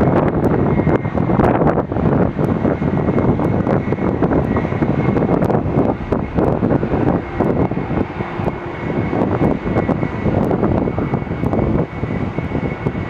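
An airliner's engines running loudly, a steady dense roar with a faint high whine held through it.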